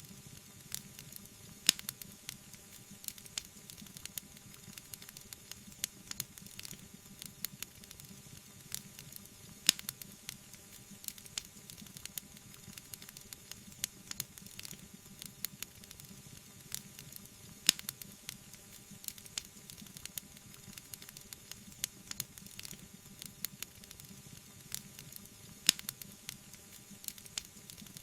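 Wood fire crackling: a dense run of small snaps and pops over a low steady hiss, with a louder pop about every eight seconds.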